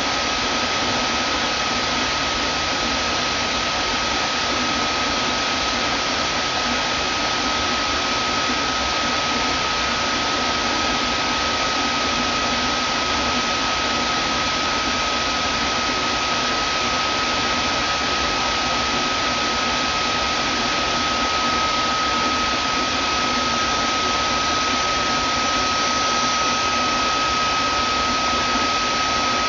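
Vacuum cleaner running steadily: an even rushing of air with a constant high whine from the motor.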